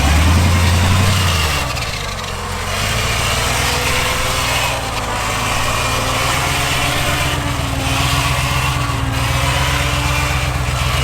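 Off-road 4x4's engine running at low revs while crawling a rock trail, a deep drone that is strongest for the first second and a half and then runs steadily.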